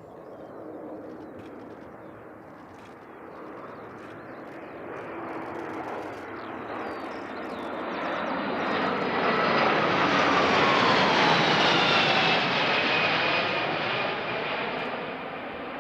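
C-17A Globemaster III's four Pratt & Whitney F117 turbofans as the transport jet flies past. The jet noise builds for about ten seconds to a peak. The engine whine then drops in pitch as the aircraft passes, and the sound fades.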